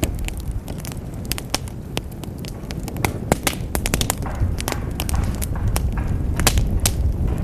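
Wood fire in a fireplace crackling: irregular sharp pops and snaps, several a second, over a low rumble from the burning fire.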